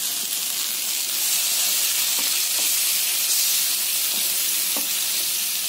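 Goat lung pieces in masala paste sizzling in a frying pan as a little water is poured in and a wooden spatula stirs them: a steady sizzling hiss with a few light spatula knocks against the pan.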